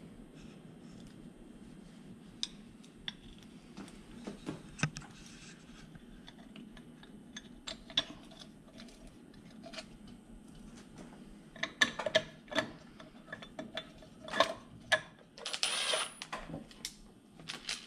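Light metal clicks and clinks as bolts and a water pump cover are handled and fitted to an engine block, growing busier later on. Near the end a cordless drill-driver runs for about a second, spinning in a cover bolt.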